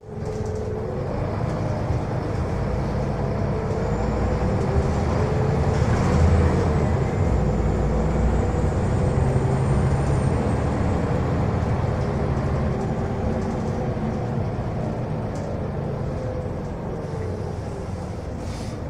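Scania L94UB bus's rear-mounted five-cylinder diesel running on the road, with a steady low drone and a faint whine that glides up and down in pitch, loudest about six seconds in.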